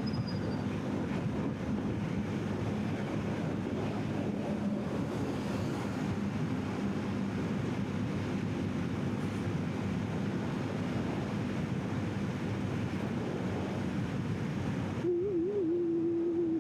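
Wind rushing over the microphone while riding a motorcycle at highway speed, with the engine's steady low hum underneath. Near the end a wavering pitched tone comes in.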